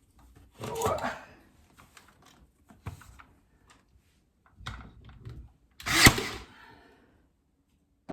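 A nail gun fires one sharp shot with a short hiss about six seconds in, after a few knocks and scrapes of wood trim being handled.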